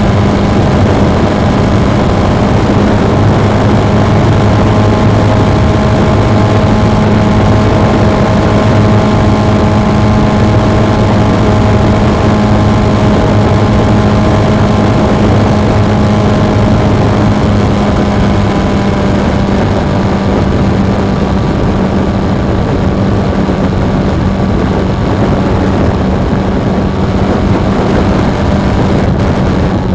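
Suzuki V-Strom 250's parallel-twin engine running steadily while the motorcycle cruises, under a loud even rush of wind and road noise on the action camera's microphone. The engine note eases slightly in level partway through.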